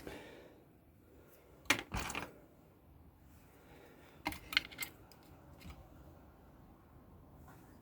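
Light clicks and taps of small hand tools and electronic components being handled on a workbench, in two short clusters about two seconds in and again about four and a half seconds in.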